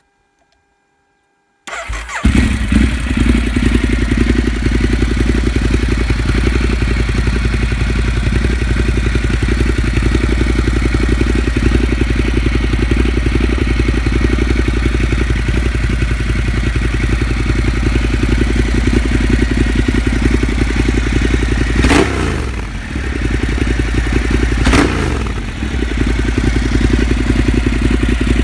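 A 2013 Ducati Multistrada Pikes Peak's L-twin engine starting about two seconds in and settling into a loud idle, with two quick throttle blips near the end. It runs through a catless exhaust: catalytic converter removed and an Arrow mid-pipe fitted.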